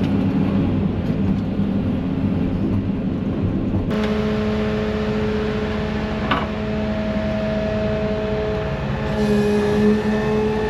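Heavy diesel machinery running steadily. About four seconds in, the sound changes abruptly to a different engine note with a steady whine over it.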